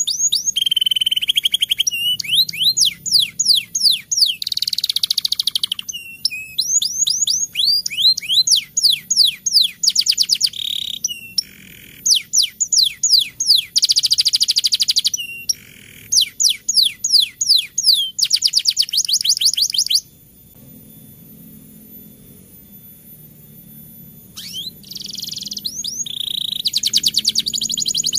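Domestic canary singing a long rolling song of fast runs of sweeping downward notes and dense trills. It breaks off for about four seconds near the end, then starts again.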